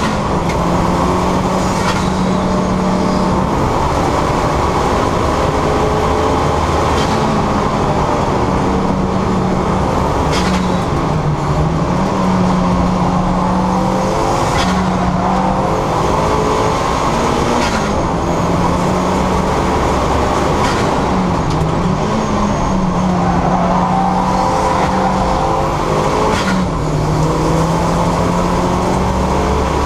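Turbocharged 2.0 Duratec engine of a Mk6 Ford Fiesta ST150 being driven hard on a race track. The engine note climbs and drops over and over through gear changes, with a brief sharp burst of noise every few seconds.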